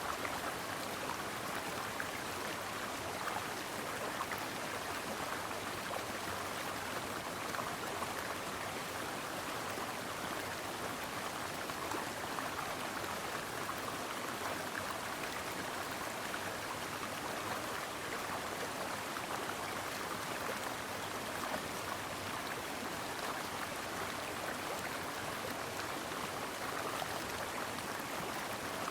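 Brook water flowing steadily, an even rushing with no breaks.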